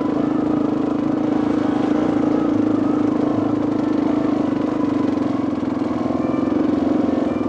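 Dirt bike engine running steadily at low, even revs.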